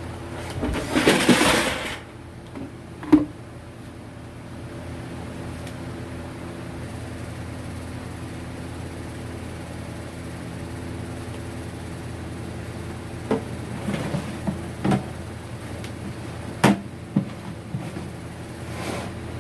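Handling noises over a steady low hum: a loud rustling, scraping burst about a second in, a sharp click a little later, then a scattering of knocks and clicks near the end.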